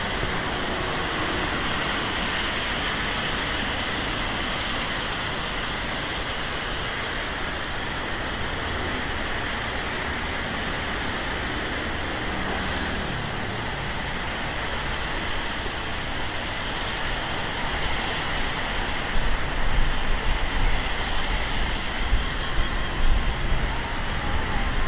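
Steady rain falling on a city street, an even hiss mixed with the wash of traffic. Near the end a low rumble grows and the level turns uneven and louder.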